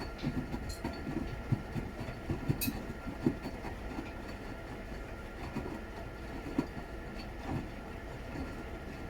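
Washing machine running a wash cycle: the drum turning with a steady hum and irregular soft thumps and knocks of the laundry tumbling.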